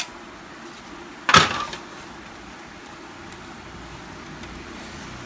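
A small click, then about a second in one loud sharp knock of a plastic part of a Canon LBP 6030 laser printer's casing being handled or pressed into place during reassembly.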